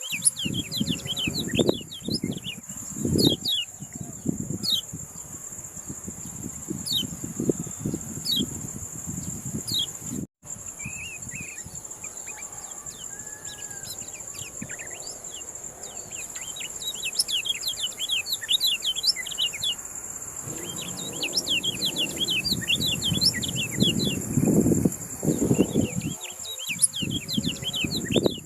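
Kecial kuning, a small songbird, twittering in fast runs of short high chirps, sparse early on and in dense flurries later. A steady high-pitched whine runs underneath, with low rumbling bursts near the start and again about 22 seconds in. The sound cuts out briefly about 10 seconds in.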